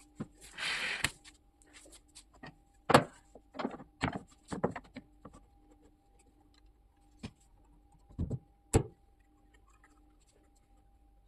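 Irregular knocks and clicks of things being handled and set down, with a short scraping rush about half a second in, over a faint steady hum. No power tool is running.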